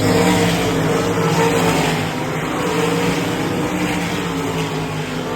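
305 sprint car small-block V8 engines racing on a dirt oval, running hard with their pitch wavering. The sound eases off slightly in the second half.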